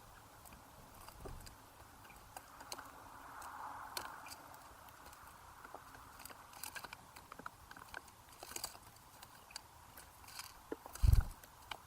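Irregular small clicks and taps of birds pecking seed and hopping about on a bird feeder close to the microphone, with one low thump near the end.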